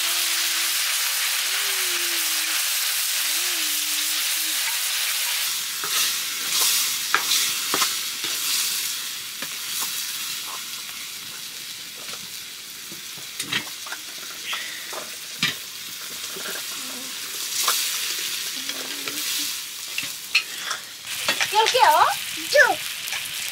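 Food sizzling and frying in a hot pan, a steady loud sizzle for about the first five seconds. After that, a ladle stirs and scrapes against the pot in short knocks and scrapes while the sizzle carries on more quietly.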